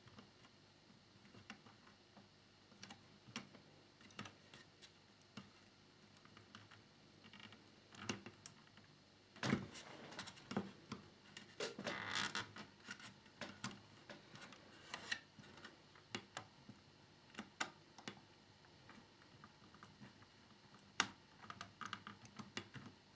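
Small plastic model parts and a small screwdriver being handled: scattered light clicks and taps as screws are fitted into a plastic fairing. There is a louder scrape about nine and a half seconds in and a longer rustle around twelve seconds.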